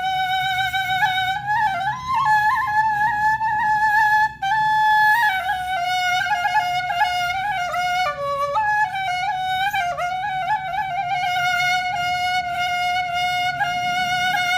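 Background music: a flute-like woodwind plays a slow traditional melody of long held notes with small ornamental turns, over a low steady drone.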